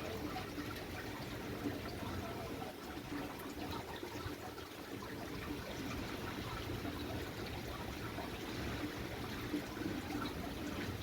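Steady rushing noise of a storm, wind and rain, with no distinct events.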